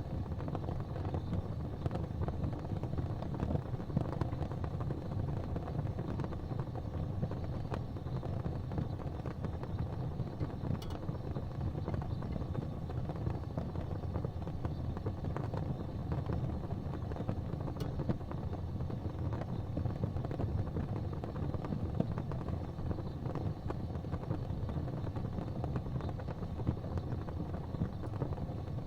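Gas fireplace flames burning with a steady low rumble and hiss, and an occasional faint tick.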